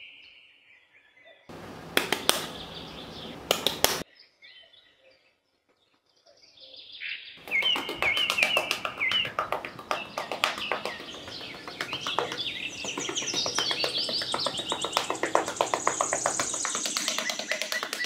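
Birds chirping in short repeated calls, over a lot of rapid clicking. There is a brief noisy rush early on and a near-silent gap before the chirping sets in about seven seconds in.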